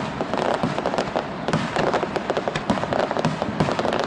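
Fireworks going off in rapid succession: a dense, continuous run of bangs and crackling with no pause.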